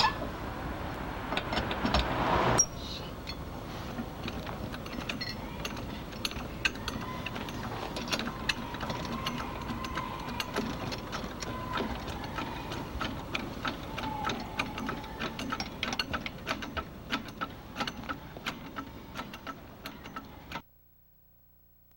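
Rapid, irregular mechanical clicking. A louder rushing noise under the clicks in the first two and a half seconds stops abruptly. The sound cuts out to near silence near the end.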